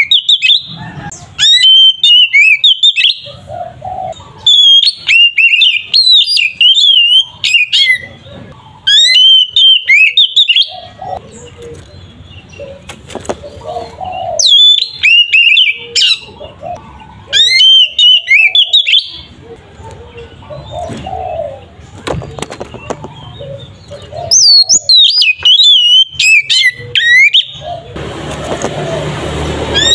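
Oriental magpie-robin (kacer) singing loud, fast phrases of sweeping whistled notes, in bursts of a second or two with short pauses between.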